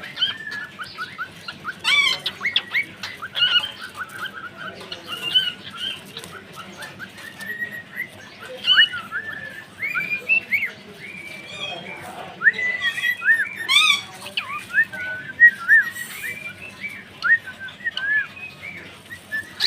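Pet cockatiels chirping and whistling in a steady stream of short, curved chirps, with an occasional louder, harsher squawk.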